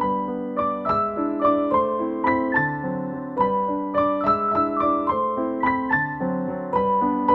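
Background music: a gentle piano melody with chords, a new note every fraction of a second.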